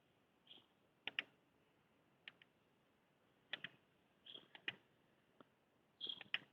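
Near silence with faint, short clicks scattered at irregular intervals, a few of them in quick pairs.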